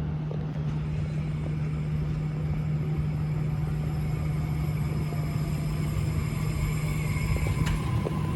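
Electric suburban train at a station: a steady low hum, getting gradually louder, with a higher whine coming in near the end.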